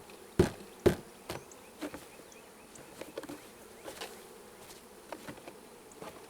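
Honeybees buzzing around an open hive, with three sharp taps on the hive in the first second, then lighter knocks and handling sounds.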